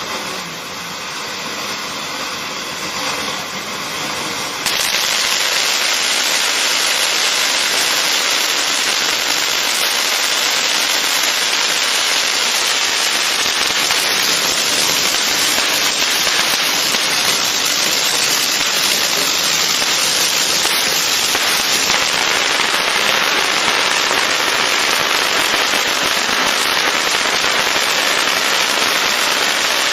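Consumer firework fountain (Garden of Colors, 500-gram) burning: a dense, steady hissing and crackling spray that starts abruptly about five seconds in.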